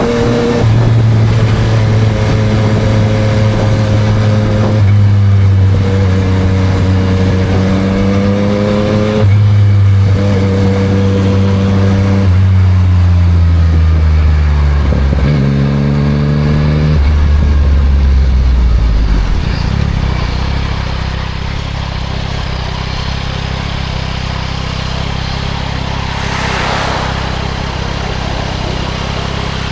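Yamaha MT-09 SP's three-cylinder engine through a Spark aftermarket exhaust, pulling through a few gear changes with rising revs. It then slows down with a downshift and throttle blip and settles to a steady idle about twenty seconds in. A brief whoosh comes near the end.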